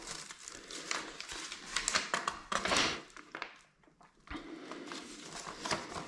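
Rustling and scattered small clicks of toilet-tank hardware and its packaging being handled, with a brief pause about halfway through.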